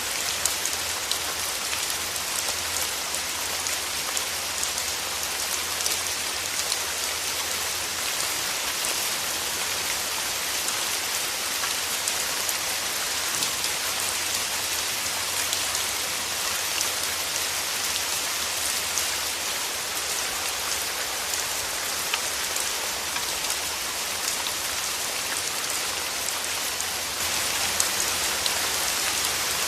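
Steady rainfall: a continuous hiss of rain with many small drop ticks. A low hum underlies the first few seconds and returns near the end, when the rain gets slightly louder.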